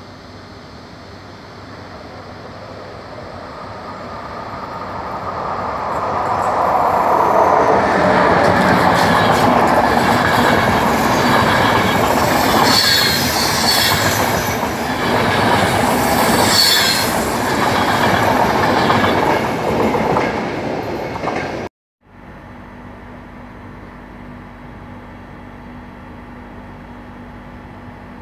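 Intercity passenger train with Comfort coaches passing through the station: its rumble grows as it nears, then stays loud for about fifteen seconds with wheels clattering over the rails. It cuts off abruptly about 22 seconds in, leaving a faint steady background with a low hum.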